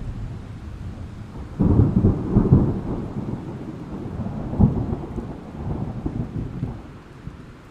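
Thunderstorm sound effect: a loud thunderclap breaks in about one and a half seconds in and rumbles on, a sharper crack comes in the middle, and the rumble dies away near the end over steady rain.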